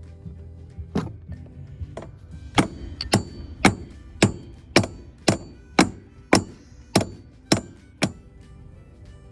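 Repeated hammer blows during demolition work. A couple of irregular strikes come first, then a steady run of about eleven blows at roughly two a second, stopping shortly before the end.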